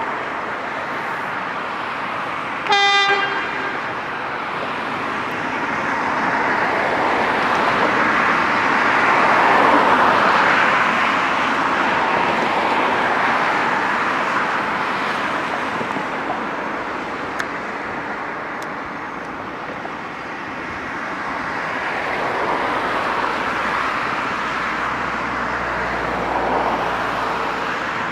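A locomotive horn gives one short, high blast about three seconds in, followed by the rushing, rumbling noise of a passenger train running past on the rails, swelling and easing off twice.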